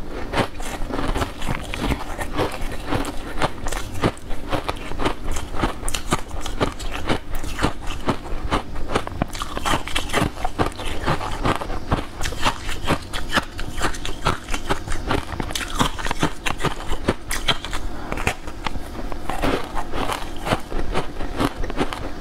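Close-miked chewing and wet mouth clicks of someone eating a soft layered cake dusted with green powder: a steady, unbroken run of small smacks and crackles.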